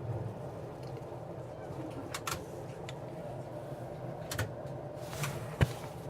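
Inside a moving Bombardier Flexity Outlook streetcar: a steady low rumble of the car running, with scattered clicks and rattles and one sharp knock near the end.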